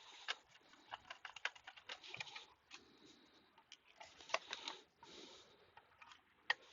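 Rapid, irregular plastic clicks and short scraping rustles of hands working at the Acer Revo One mini PC's plastic casing, with a few sharper clicks about a second and a half in, at about four and a half seconds, and near the end.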